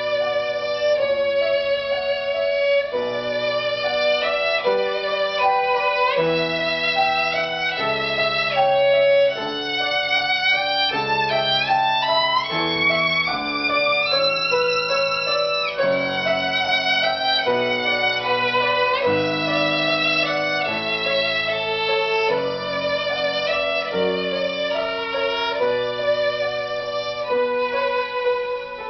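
Violin playing a lyrical melody with vibrato over lower sustained accompanying notes, with a rising run of notes about halfway through.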